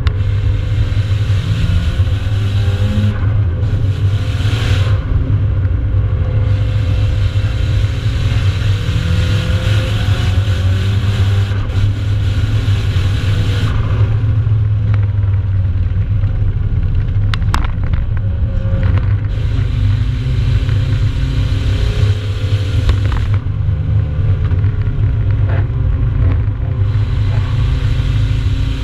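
Nissan 200SX's turbocharged four-cylinder engine heard from inside the cabin at speed on track, its note rising and falling with throttle and gear changes over a constant low road rumble and stretches of tyre and wind hiss. A couple of sharp clicks come about two-thirds of the way through.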